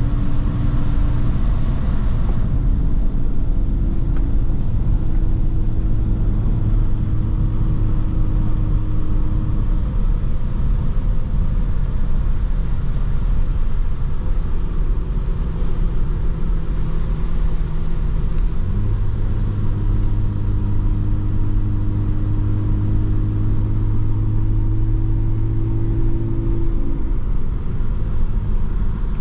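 Mercedes-AMG C43 driving at a steady cruise: a continuous low engine drone over road rumble, the engine note holding for long stretches with small shifts in pitch.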